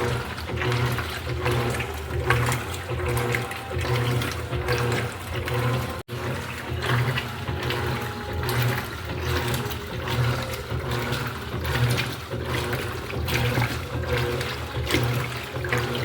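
Electrolux LED14 top-loading washing machine agitating a load in water: the motor hum swells and falls about once a second over water sloshing, with a brief cut-out about six seconds in.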